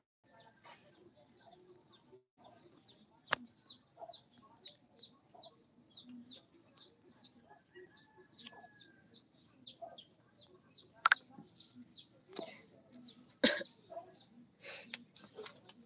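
A bird chirping over and over in short, falling chirps, about three a second, which stop about ten seconds in. A few sharp knocks break in, the loudest about three seconds in and again near eleven and thirteen and a half seconds.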